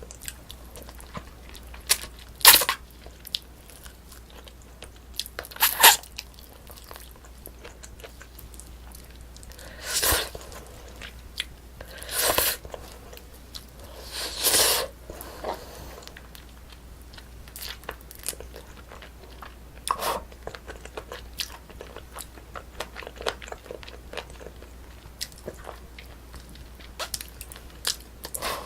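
Close-miked chewing and biting of braised spicy chicken, with many small wet clicks and a louder sharp bite or crunch every few seconds.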